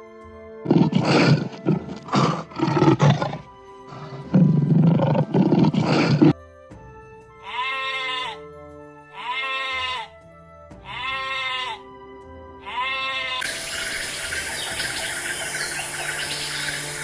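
Animal calls over soft background music: harsh, noisy calls in the first six seconds, then four separate pitched calls of about a second each that rise and fall, then a steady hiss near the end.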